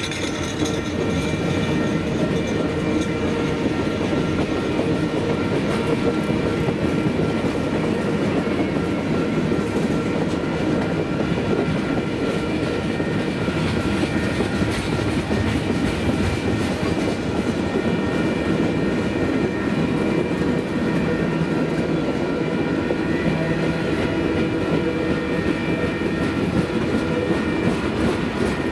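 Freight cars of a mixed Union Pacific freight train (tank cars, covered hoppers, gondolas) rolling past steadily, their wheels clattering over the rail joints under a continuous rumble, with a faint steady ringing over it.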